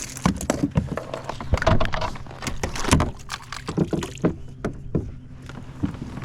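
Irregular knocks, rattles and splashing as a white bass is landed aboard a fishing kayak, busiest in the first half, then a few scattered knocks.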